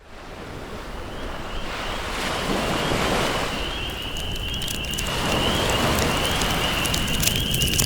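Ocean waves washing in, fading up at the start and surging twice, about two and five seconds in, with a campfire beginning to crackle near the end.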